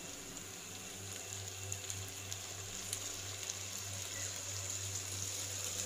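Chicken pieces frying in a hot pan, a soft steady sizzle with a few faint ticks, over a steady low hum.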